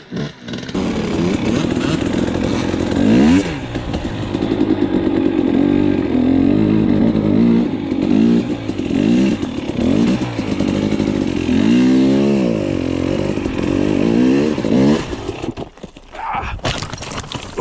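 Dirt bike engine revving hard, over and over, its pitch climbing and falling with each blip of the throttle. It drops back about fifteen seconds in.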